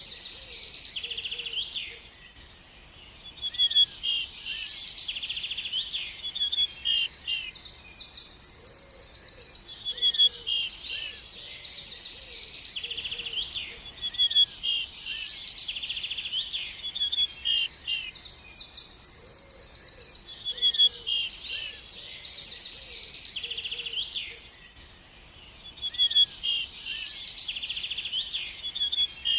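Songbird chirping and trilling in rapid, continuous high phrases, with two brief lulls, about two seconds in and near the end.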